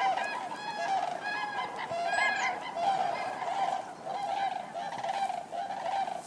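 A flock of common cranes calling: many overlapping trumpeting calls, with a few louder, clearer calls in the first half and a steady chorus of quieter calls throughout.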